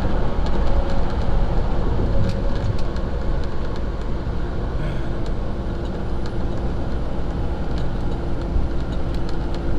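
Semi truck driving along: a steady engine drone and road noise, even throughout.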